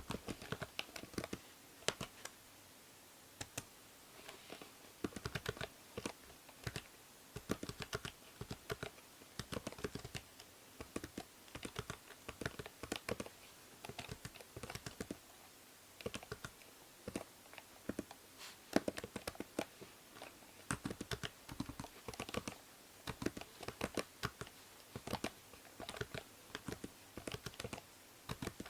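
Computer keyboard being typed on in runs of rapid keystrokes with short pauses, over a steady hiss from the binaural microphone.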